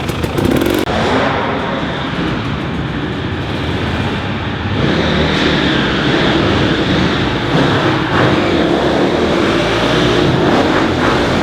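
KTM dirt bike engines running and revving, growing a little louder about halfway through.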